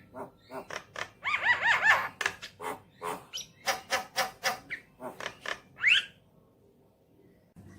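Javan myna singing: a fast run of harsh clicking and chattering notes, with a quick burst of repeated arching whistled notes about a second in and a rising note near six seconds, after which it stops.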